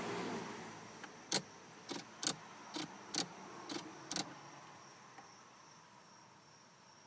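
A run of about seven sharp, irregular clicks over roughly three seconds, over a steady high insect drone of crickets.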